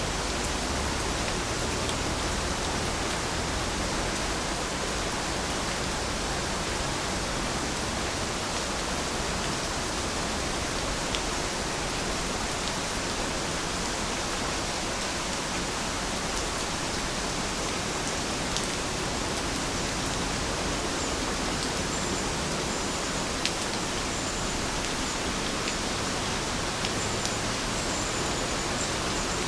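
Heavy rain falling steadily, with scattered sharper drop ticks. A faint series of high chirps comes in over the last third.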